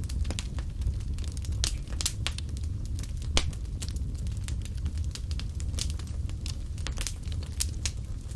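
Fireplace fire crackling, with frequent irregular sharp pops over a steady low rumble of the flames; the loudest pop comes about three and a half seconds in.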